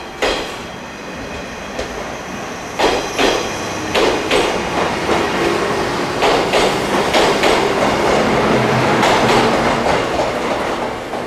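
485-series electric multiple unit departing and rolling past at close range: its wheels clack over the rail joints in pairs, every second or two, over a running rumble that grows louder as the train picks up speed.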